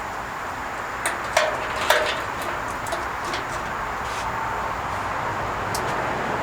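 A few light knocks and clicks over a steady background hiss, the sharpest three coming between about one and two seconds in, with fainter taps after them.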